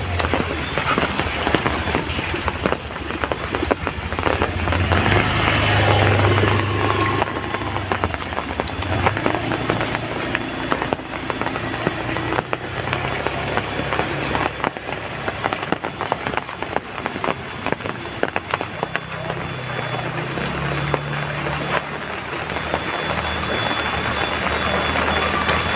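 Heavy rain pouring steadily, with many drops hitting surfaces, and a low hum that swells twice, in the first quarter and again past the middle.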